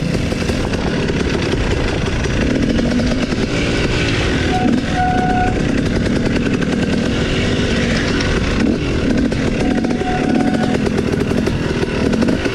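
Dirt bike engine running, its pitch rising and falling with the throttle while climbing a hill.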